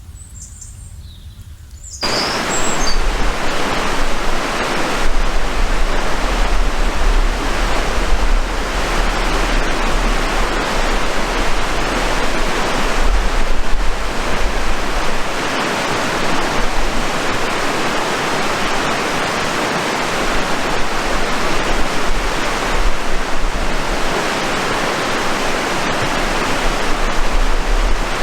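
A few high bird chirps over quiet, then about two seconds in a loud, steady rush of water cuts in abruptly, with a deep rumble underneath.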